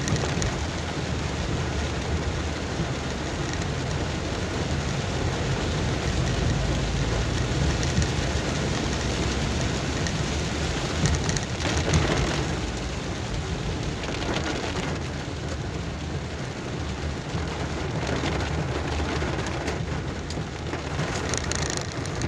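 Heavy rain pattering on a car, heard from inside while driving, over a steady low rumble of engine and road.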